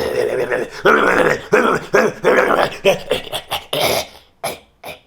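A person imitating a bad car muffler with their voice: a long buzzing blat, then a run of choppy sputters that thin out into a few short puffs near the end.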